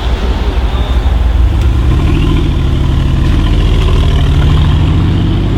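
A car engine running loudly. Its pitch rises about two seconds in as it accelerates, then holds steady.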